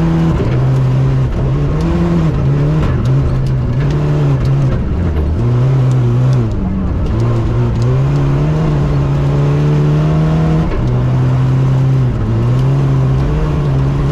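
Rally car engine heard from inside the cabin, driven hard on the stage, its pitch stepping up and down again and again through gear changes and lifts off the throttle.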